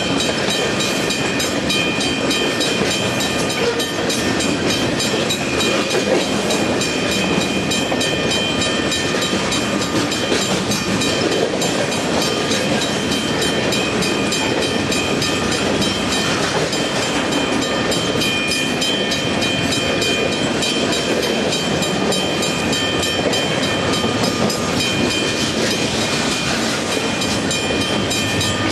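A train running on the rails: a steady rumble and rail noise with many small clicks, and a couple of thin, steady high-pitched tones over it.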